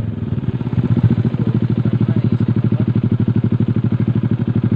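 Motorcycle engine running at steady low revs, with an even, rapid pulsing beat.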